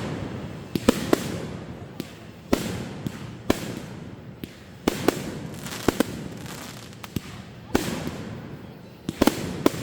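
Aerial fireworks bursting: about a dozen sharp bangs at irregular intervals, roughly one a second, each followed by a long fading rumble of echo.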